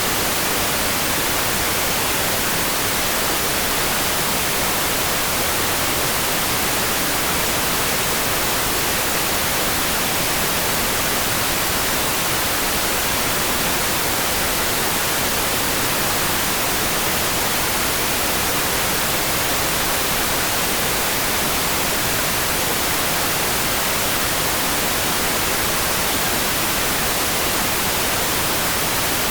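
Steady rain sound: an even, unchanging hiss with no separate drops, thunder or other events standing out.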